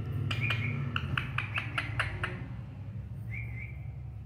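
Pet parrot making a quick series of about a dozen sharp clicks over two seconds, with a short high chirp early on and another near the end.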